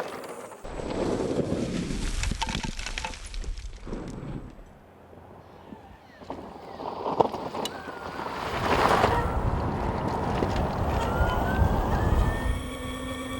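Zero FX electric motorcycle riding off-road, heard as wind noise on the microphone and tyre and chassis rumble with scattered knocks, broken by sudden cuts. Near the end a thin electric-motor whine rises in pitch as the bike accelerates.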